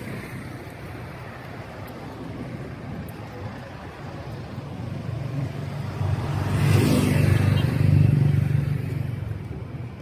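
Street traffic with a motor vehicle passing close by. Its engine and tyre noise builds from about five seconds in, peaks around seven to eight seconds, then fades.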